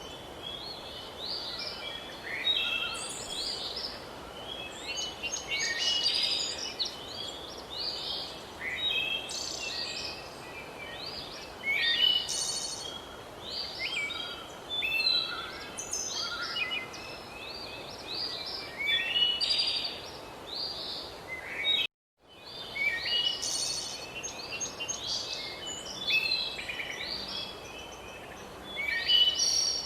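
A dense chorus of many songbirds chirping and trilling over a steady outdoor hiss, broken by a sudden silent gap of about half a second roughly two-thirds of the way through.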